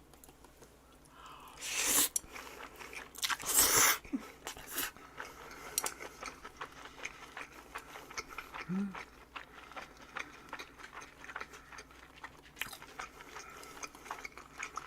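Close-miked chewing and crunching of boiled pork and kimchi, with two louder crunching bites about two and four seconds in, then a steady run of small clicks of chewing.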